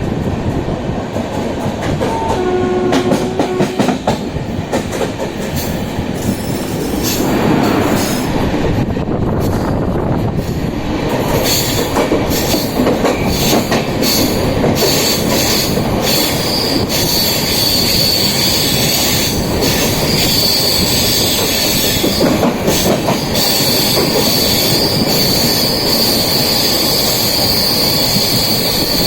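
A passenger train running on rails, its wheels clicking over the rail joints. From about a third of the way in, a high steady wheel squeal sets in and grows stronger. A brief pitched tone sounds about two seconds in.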